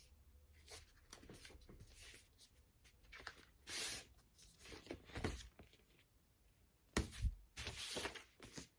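Cardboard record sleeves and jackets being handled: intermittent rustling and sliding scrapes, with a couple of soft thumps as an LP is set down.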